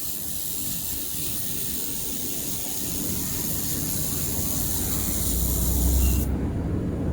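Handheld air-cooled laser welder running a weld on aluminum: a steady hiss with a low hum under it, cutting off suddenly after about six seconds.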